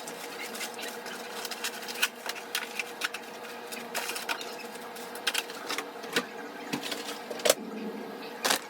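Irregular light clicks, knocks and clatter of household items being handled and put away, over a steady low hum.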